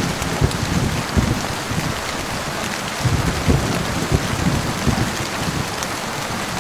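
Steady heavy rain, with low rumbling thunder swelling at the start and again about three seconds in.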